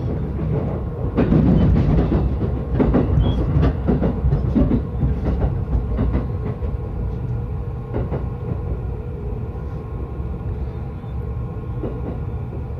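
Yokosuka Line train sounds: a string of knocks and clunks over the first few seconds, then a steady low rumble.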